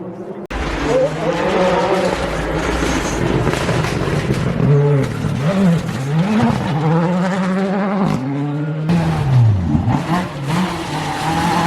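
Rally car engine revving hard through a hairpin, the revs dropping and climbing again and again with gear changes and throttle. It breaks off briefly about eight seconds in, then climbs once more.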